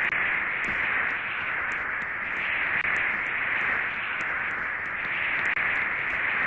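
Steady rushing noise, strongest in the upper-middle range, with a few faint ticks over it.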